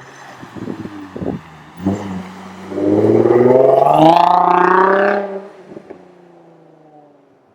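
Infiniti G35's 3.5-litre V6 through a Motordyne Shockwave aftermarket exhaust: a few sharp pops, then a loud, hard rev rising in pitch, held for a couple of seconds, then falling back as the throttle closes.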